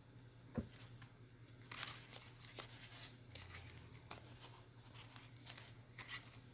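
Faint rustling and small clicks of paper and thread being handled while signatures are hand-sewn into a journal spine, with one soft thump about half a second in, over a steady low hum.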